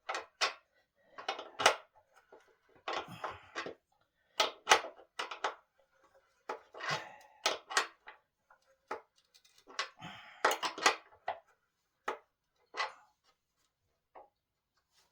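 Irregular sharp knocks and clatter of wooden table parts and hand tools being handled during assembly of a solid-wood dining table, with a few short scraping or rustling stretches between the knocks.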